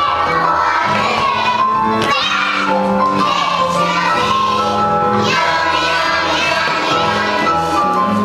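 Children singing a song over held instrumental notes.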